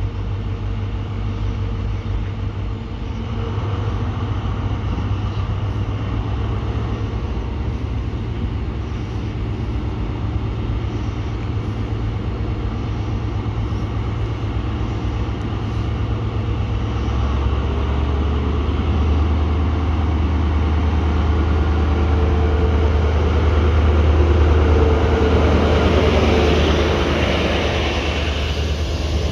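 Train running past: a steady low drone that grows louder from a little over halfway through, with a rushing noise that peaks near the end.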